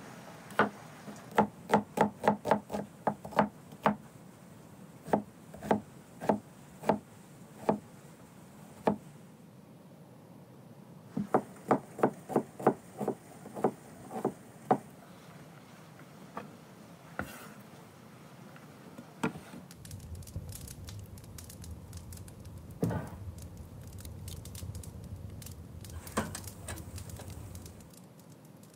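A cleaver-style knife chopping a red onion on a wooden cutting board: quick runs of sharp knocks, several a second, with pauses between. Near the end the knocks thin out and a low steady hum sits underneath.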